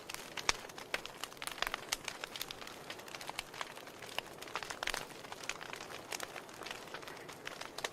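Wood fire in a fireplace crackling: irregular sharp pops and snaps from burning logs over a steady soft hiss.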